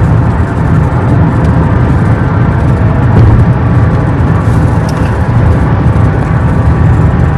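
Car driving at highway speed: steady road and engine noise.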